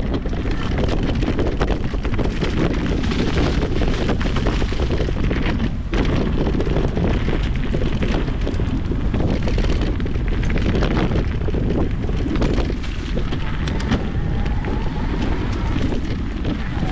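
Wind buffeting an action camera's microphone while an e-mountain bike is ridden along a rough dirt trail. Steady rushing noise from tyres and wind, with frequent short knocks and rattles from the bike over bumps.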